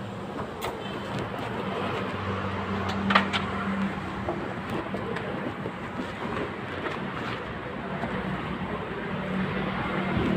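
Steady low machine hum over background noise, with a few light clicks and knocks and one sharper knock about three seconds in.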